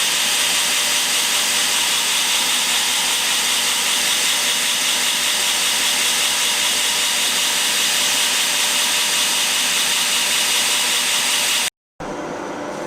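Belt grinder running steadily on its flat platen while the front of a pair of knife handle scales is ground to a chamfer against an angled rest table. A steady, loud grinding noise that cuts off suddenly near the end.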